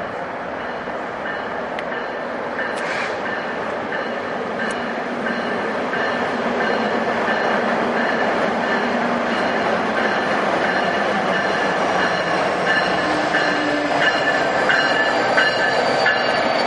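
NJ Transit passenger train rolling past on the rails, with high, steady wheel squeal tones over the rumble of the wheels; it grows louder about six seconds in.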